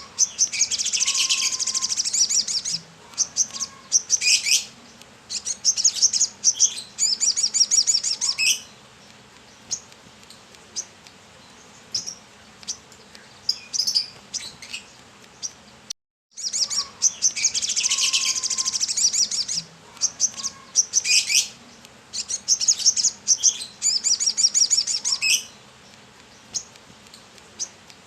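Brown-throated sunbird (kolibri kelapa) singing vigorously in rapid, high, twittering trills. Dense phrases fill the first few seconds, then come only scattered chirps, and the same run of song starts again about halfway through.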